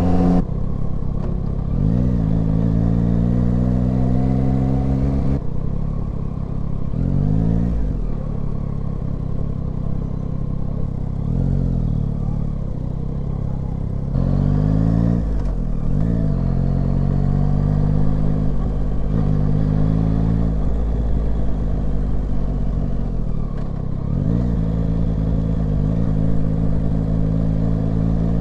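Yamaha Tracer 9's inline three-cylinder engine under way, its revs climbing and then dropping sharply again and again as it pulls through gear changes, over a steady low rumble.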